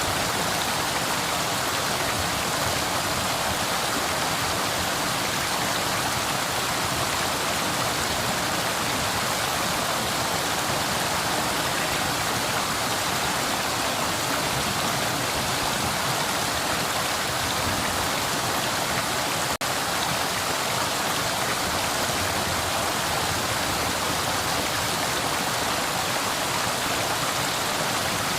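Flowing river: a steady, even rush of water, with a momentary dip about two-thirds of the way through.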